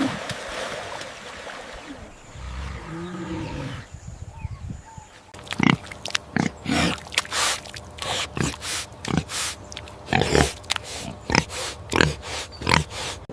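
Elephant and calf calling: a short low call a few seconds in, then a run of about a dozen short sharp grunt-like sounds, one or two a second.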